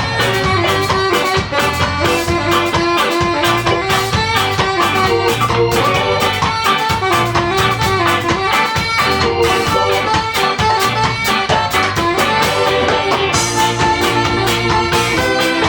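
Live ska band playing an instrumental passage with a steady beat.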